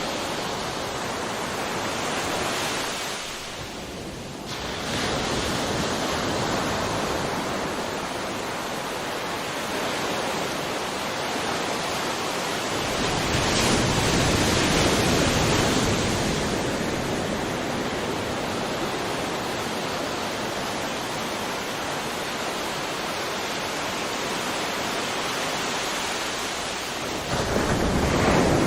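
Sea waves breaking and washing on the shore in a steady hiss. The surge swells about 13 seconds in and again near the end, with a short lull about 4 seconds in.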